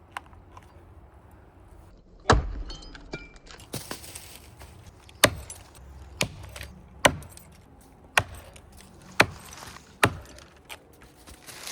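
Axe chopping into the trunk of a big maple tree: about seven sharp strikes, the first about two seconds in and the rest roughly one a second.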